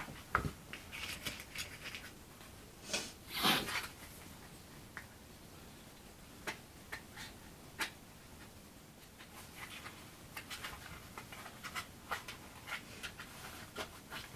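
Hands handling small model-airplane parts at a workbench: scattered light clicks, taps and scratching, with a louder rustle about three seconds in.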